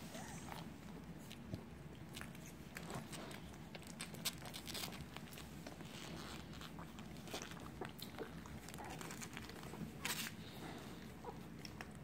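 Puppies suckling at their nursing mother: irregular small wet smacks and clicks over a steady low hum.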